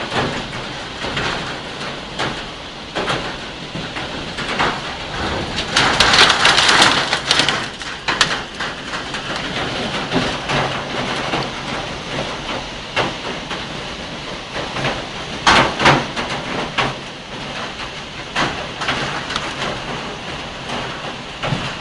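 Heavy downpour driven by strong wind in a thunderstorm: a steady rush of rain that swells louder about six seconds in and again around sixteen seconds.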